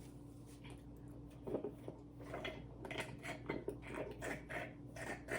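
Close-miked chewing and mouth sounds while eating: irregular small wet smacks and clicks that start about a second and a half in, over a faint steady hum.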